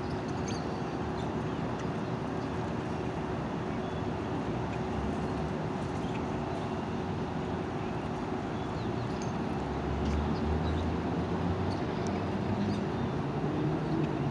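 Steady vehicle hum from a parking lot, with an engine tone held throughout; a louder low rumble comes in about ten seconds in.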